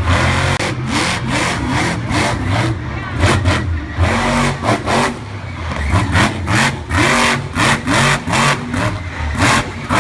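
Monster truck engine revving hard, its pitch climbing and dropping over and over, with many sharp blasts of noise as the throttle is worked.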